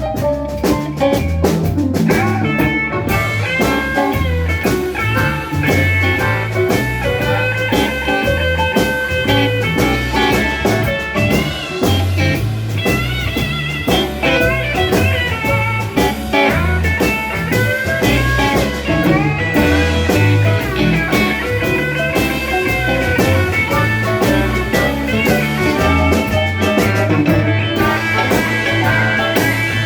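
Live blues band playing an instrumental passage: a lead guitar solo with long bending notes over a steady bass and drum groove.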